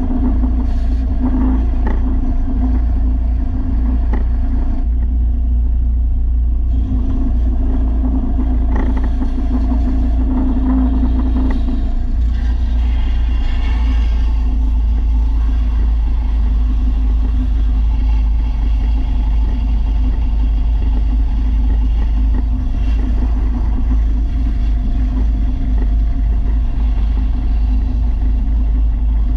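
Belt sander running steadily with a low motor hum while a steel mower blade is ground against its belt. The rough grinding noise varies and swells about halfway through.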